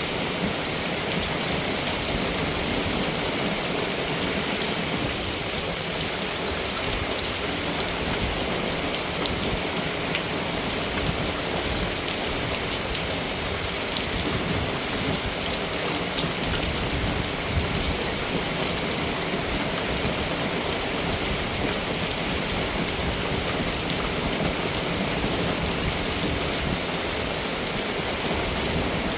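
Steady rain falling, with scattered sharper ticks of single drops striking a surface.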